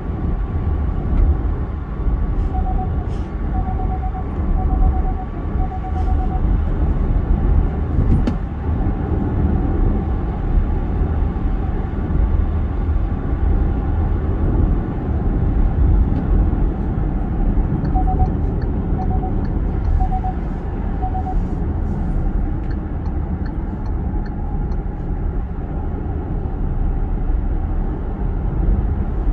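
Steady low rumble of tyre and road noise heard inside the cabin of an all-electric VinFast VF8 at highway speed on a wet road. Twice, a run of short beeps in quick pairs sounds, about four pairs each time, once near the start and again past the middle.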